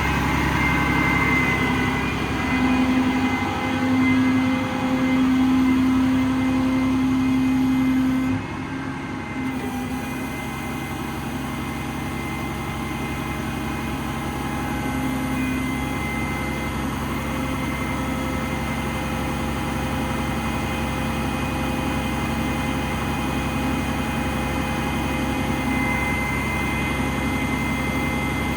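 An engine running steadily with a constant hum. It is a little louder for the first eight seconds, then drops slightly in loudness and stays even.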